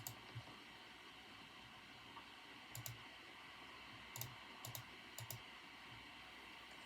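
Sparse keystrokes on a computer keyboard: a few soft, separate clicks, singly or in pairs a second or so apart, over a faint steady hiss.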